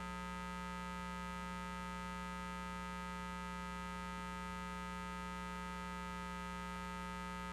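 Steady electrical mains hum, a constant stack of even tones with nothing else over it.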